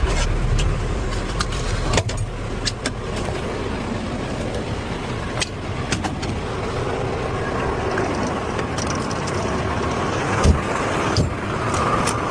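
Fire engine running steadily, with scattered clicks and knocks and two sharper knocks near the end.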